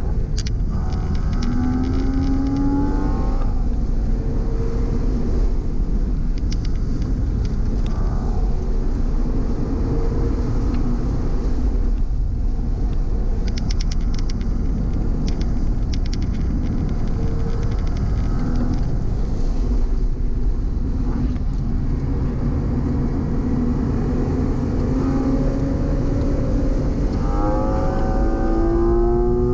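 Porsche engine heard from inside the cabin at speed, over constant road and tyre noise. The engine note climbs under acceleration early on and again near the end, with lower, steadier running through the corners between.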